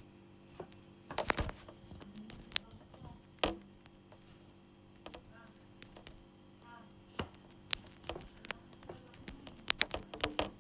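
Irregular clicks and knocks of the plastic parts of a Delta coffee machine being handled and pushed together, a part that will not lock into place. A cluster of sharper clicks comes near the end, over a faint steady hum.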